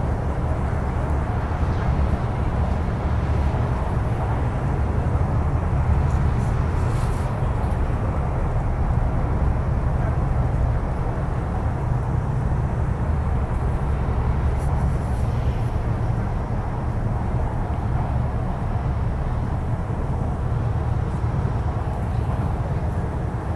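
Inside the car of an MTR East Rail Line Hyundai Rotem electric train running through a long tunnel: a steady, even low rumble.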